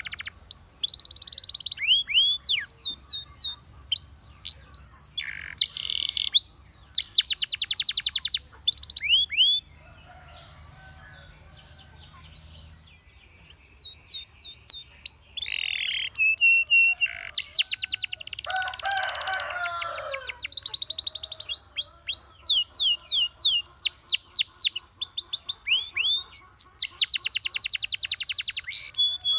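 Domestic canary singing: quick rising whistled notes and fast rolling trills, with a pause of about three seconds a third of the way in before the song picks up again.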